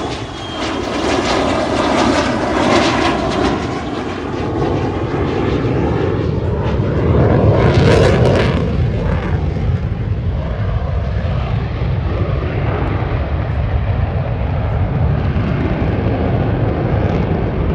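Fighter jet flying past at an air show: a loud engine roar that swells to a peak about eight seconds in, then eases into a steady low rumble.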